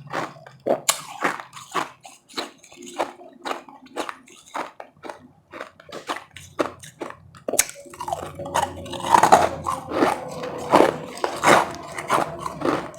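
A person chewing and crunching mouthfuls of powdery frozen ice in a steady run of crisp crunches, growing denser and louder about two-thirds of the way through.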